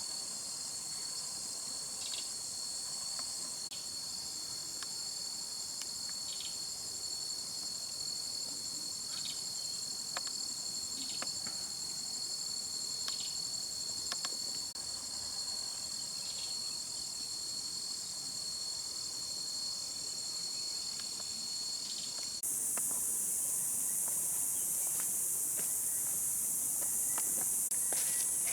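Steady chorus of insects, with a thin, high, unbroken trill and a few faint short chirps scattered through. About 22 seconds in, the chorus changes abruptly to a louder, higher hiss.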